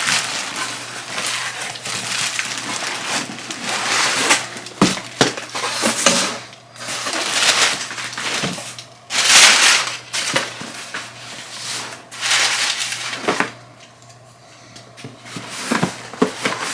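A cardboard shipping box being opened and its packaging handled: irregular bursts of rustling and crackling cardboard and paper, with a few sharp knocks.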